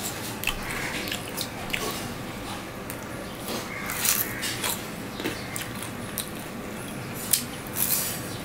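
Jalebi being bitten and chewed close to the microphone: sharp crackles and wet mouth clicks at irregular moments, the loudest around the middle and near the end.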